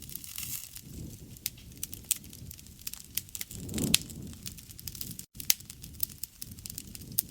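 Wood campfire crackling: frequent sharp pops and snaps over a low rumble of burning flames, with a swell of flame noise about four seconds in and a split-second gap in the sound a little after five seconds.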